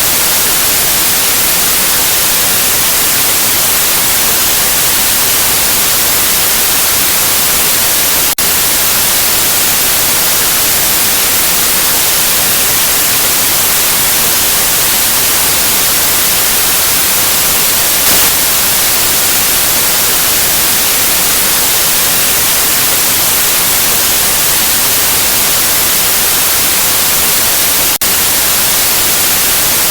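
Steady white noise: an even, loud hiss with no pitch, brightest in the highs. There is a brief click about eight seconds in and another near the end.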